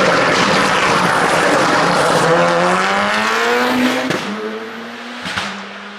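Race car engine at full throttle going past and on up a hillclimb course. Its pitch rises, then breaks about four seconds in with an upshift, and it fades away near the end.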